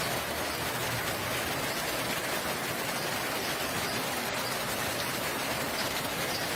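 Steady rain falling, an even hiss of rain and drops on surfaces.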